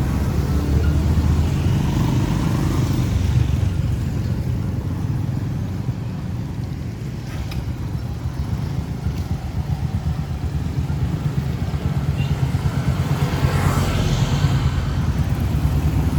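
Motorcycle engines running in busy street traffic, a steady low rumble, with one vehicle passing close by near the end.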